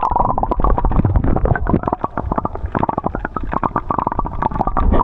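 Water bubbling and gurgling heard with the microphone underwater: a muffled, churning rumble dense with quick pops and crackles.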